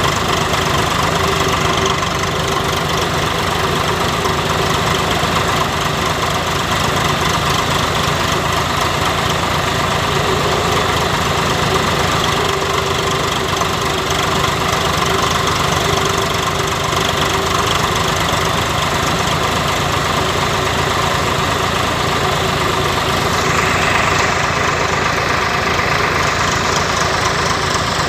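Tractor diesel engine running steadily while driving a chaff cutter, a continuous loud machine sound whose tone shifts slightly near the end.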